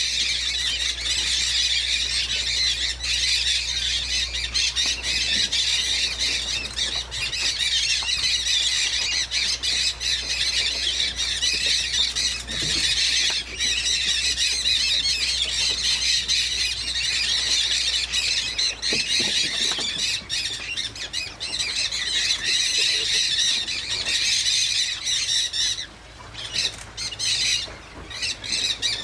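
A large flock of mealy amazon parrots squawking in a dense, continuous, overlapping chorus, thinning out for a moment a few seconds before the end. A low steady hum runs underneath.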